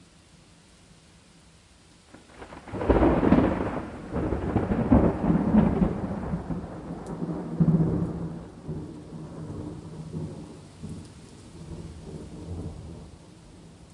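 Thunder over steady rain: a loud clap breaks a little under three seconds in and rolls on in several rumbling peaks, slowly dying away over about ten seconds.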